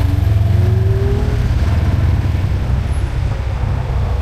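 Wind buffeting the microphone on a moving e-bike, a steady low rumble, with a single whine rising in pitch during the first second and a half.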